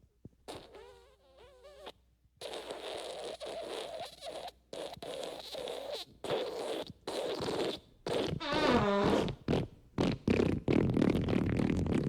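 A string of fart sound effects, one after another with brief breaks: some are wavering, pitched toots and others are rough and sputtering. They grow louder in the second half.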